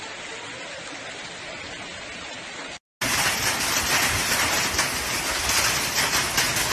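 Hail and heavy rain pelting down in two clips: first a steady hiss, then after a brief cut to silence, a louder, denser downpour full of small hits.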